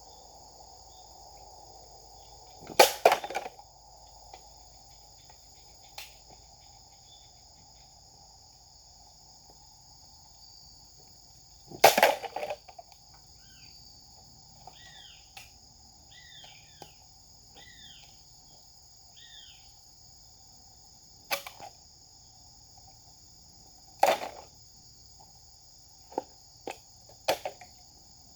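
Japanese sword (katana) cutting strokes: sharp swishing cuts, the loudest about 3, 12 and 24 seconds in, with a lighter one near 21 seconds and three quick ones close together near the end. Insects drone steadily throughout, and a bird chirps a few times in the middle.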